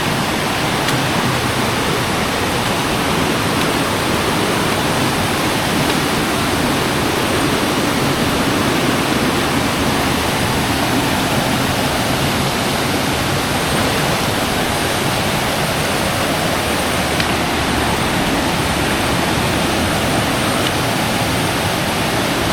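Rainforest river rushing over rocks and small cascades: a steady, unbroken rush of water.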